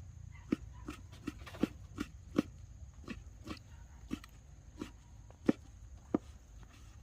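A series of about a dozen sharp, irregular knocks, roughly one to two a second, each with a brief ring, over a low steady hum.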